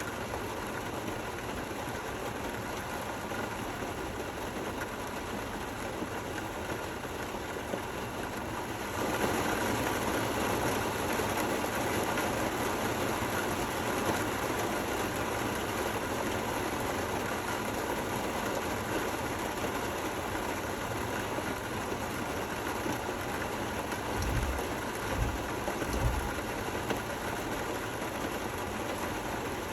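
Steady rain falling, a continuous even hiss that picks up and becomes heavier about nine seconds in. A few short low rumbles sound a little before the end.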